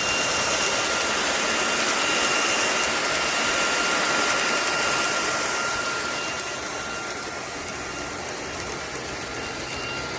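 SunSare X11 cordless stick vacuum running steadily: a rushing airflow with a high, thin motor whine, easing slightly about six seconds in.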